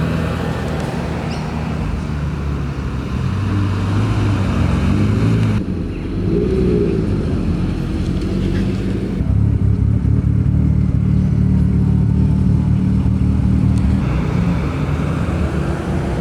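Car engines running at low speed as cars drive in one after another, with a low, steady engine note and a brief rise and fall in pitch from a light rev. The sound changes abruptly about three times as one car's sound gives way to the next.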